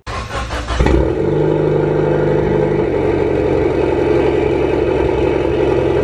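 Mitsubishi Lancer Evolution's turbocharged four-cylinder engine being started: the starter cranks briefly, the engine catches about a second in, and then it idles steadily.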